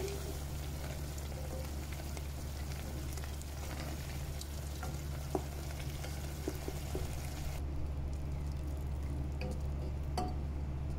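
Spinach frying and sizzling in hot oil in a pot, stirred with a wooden spatula that now and then clicks and scrapes against the pot. A steady low hum runs underneath.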